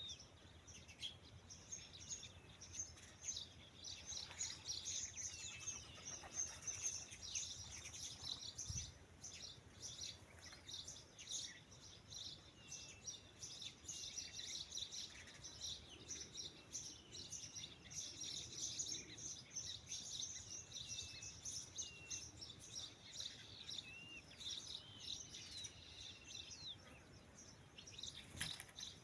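Many birds chirping and calling together in a steady chorus, with short whistled notes sliding down in pitch again and again.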